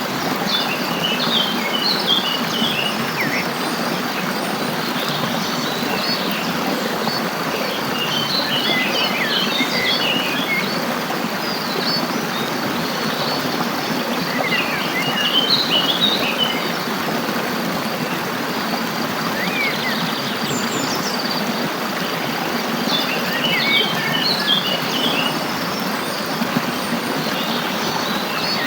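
Small songbirds singing in short twittering phrases that come every several seconds, over the steady rush of running water, with a thin continuous insect trill high above.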